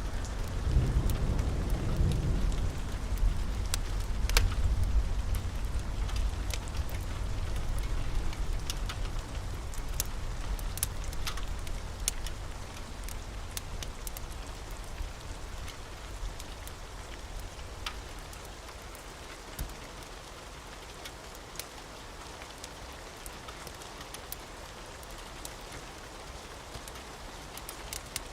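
Steady rain with a low roll of thunder that fades away over the first several seconds, and scattered sharp crackles from a wood fire.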